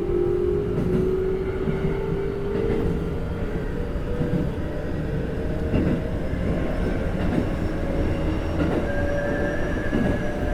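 Toyo GTO-thyristor VVVF inverter and traction motors of a Keikyu 1500 series (1700 subseries) train, heard inside the lead car as it accelerates: a whine that climbs steadily in pitch, with a new higher tone taking over about halfway and rising again. Wheels rumble on the rails underneath.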